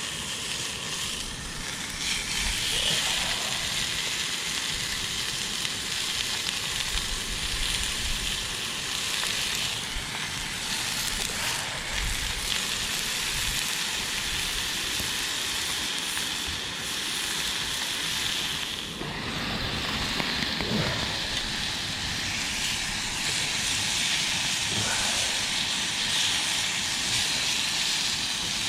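Steady hissing and sizzling of breakfast frying in a pan on a portable camping stove.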